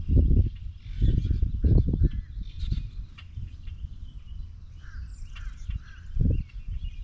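Birds chirping and calling, over loud irregular low rumbles that surge right at the start, again around one to two seconds in, and once more about six seconds in.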